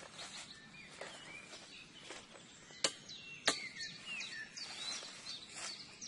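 Small birds chirping over and over, short rising and falling calls, with light rustling of leaves and grass. Two sharp snaps about two-thirds of a second apart near the middle are the loudest sounds.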